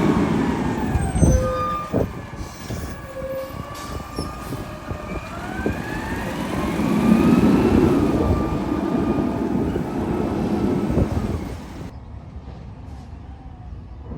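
Garbage truck running, with a rumble and high squealing tones that glide up and down. It gets quieter about twelve seconds in.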